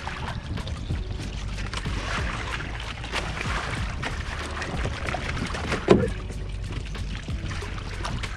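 Kayak on open water: water splashing and lapping against the hull over a steady low wind rumble on the microphone, with one sharp knock about six seconds in.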